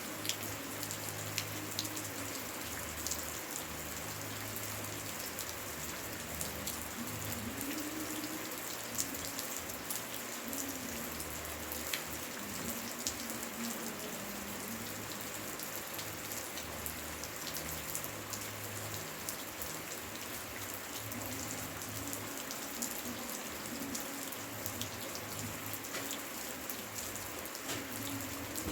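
Heavy rain falling steadily, with many scattered sharp drop ticks over an even hiss.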